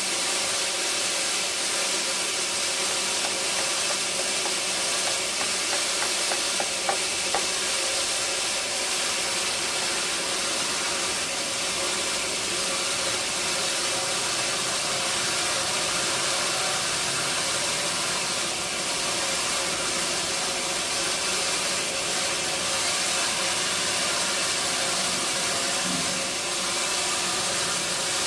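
Sawmill machinery running steadily: a constant hiss with a hum of several steady tones, and a few light clicks about six to seven seconds in.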